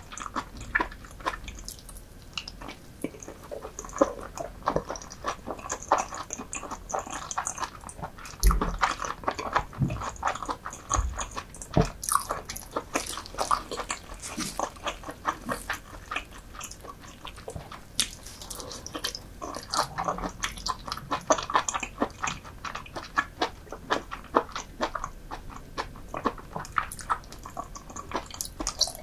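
Close-miked eating of soy-marinated raw seafood and rice: steady chewing and biting with many short, irregular wet clicks and smacks, and a few louder low thumps between about 8 and 12 seconds in.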